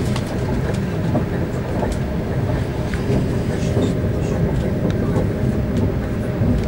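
Passenger train running at speed, heard from inside the carriage: a steady low rumble of wheels and running gear on the track, with faint scattered light clicks.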